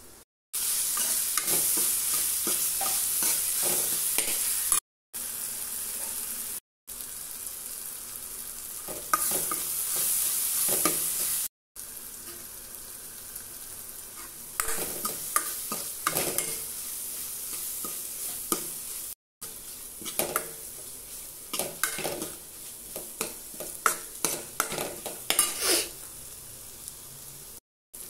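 Onions and tomatoes sizzling in oil in a metal kadai, with a steel ladle scraping and clinking against the pan as it stirs. The sizzle is loudest in the first half, the scraping strokes come thick in the second half, and several abrupt cuts break the sound.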